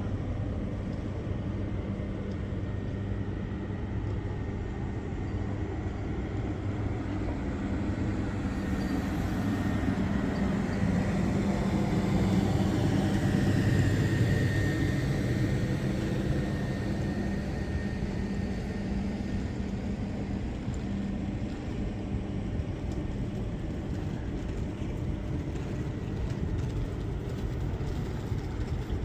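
Steady low mechanical hum of a vehicle, swelling louder for a few seconds around the middle and then easing back.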